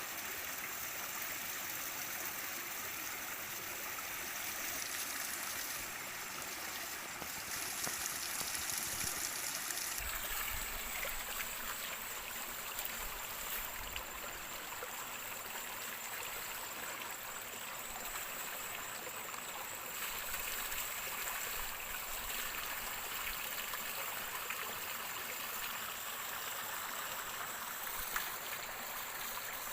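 Running water, a steady rushing hiss like a stream, which changes in character abruptly about ten and again about twenty seconds in.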